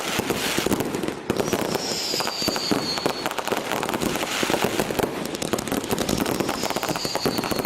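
Fireworks going off: a dense, continuous crackle of rapid small bangs, with high whistles that fall slightly in pitch twice.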